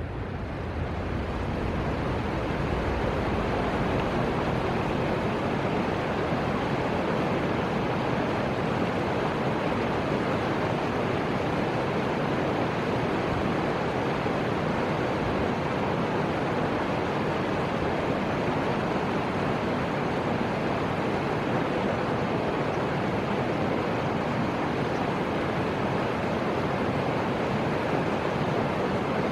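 Fuji River water flowing, a steady rushing hiss that builds over the first second or two and then holds even.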